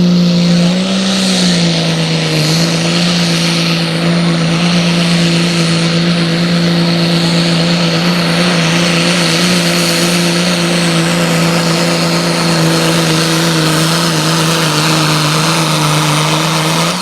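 Pulling truck's engine running hard at high, nearly steady revs under load, with a brief rise and dip in pitch about a second in.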